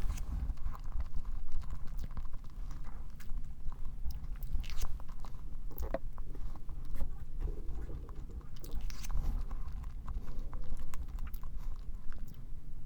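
A person chewing strawberry cream cake right beside the microphone, with wet mouth sounds and a few short, sharp clicks.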